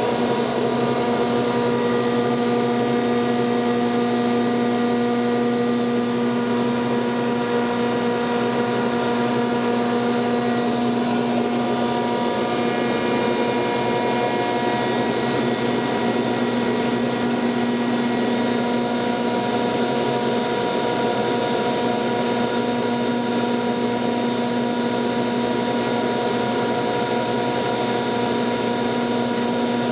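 Buss 4L planer running at speed, its four-knife cutterhead and 15-horsepower motor giving a steady whine with a few even tones, really nice and quiet.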